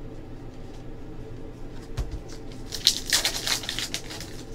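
Stack of trading cards being flipped through by hand: a soft thump about two seconds in, then a quick run of crisp card flicks lasting over a second.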